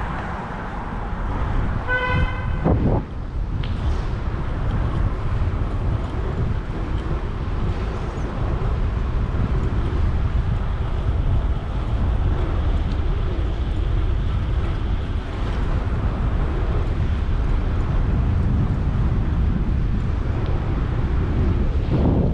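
Steady rumble of wind on the microphone and road traffic while riding a bicycle, with one short vehicle horn toot about two seconds in.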